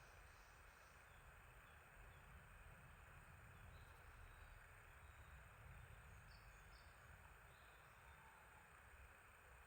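Faint small birds chirping, short high calls now and then, over a steady quiet hiss and low rumble of outdoor background noise.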